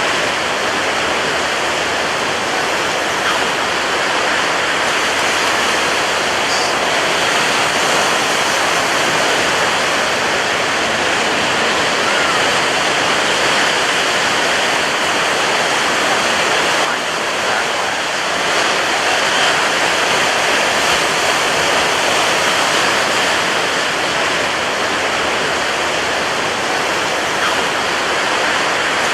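Ocean surf breaking on a beach: a loud, continuous wash of crashing waves, with a brief slight lull a little past halfway.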